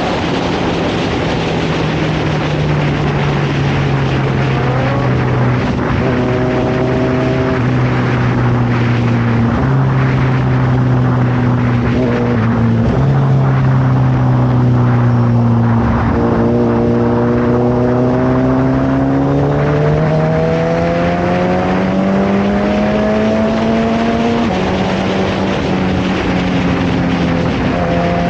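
Suzuki Hayabusa's inline-four running through a Brock's full exhaust while riding. The engine note holds fairly steady at cruising revs with several small steps in pitch, climbs gradually about two-thirds of the way through, then drops again. Wind rush runs underneath throughout.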